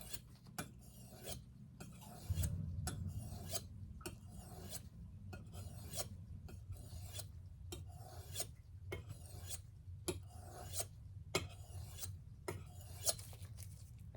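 Chef's knife being stroked back and forth on a sharpening stone: a rasping scrape about twice a second, steady and fairly quiet.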